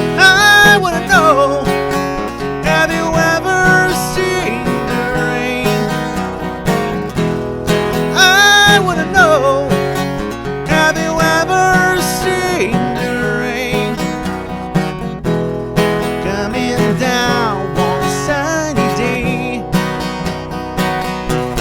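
Acoustic guitar strumming the song's chords in an instrumental passage, with a melody line gliding between notes above them.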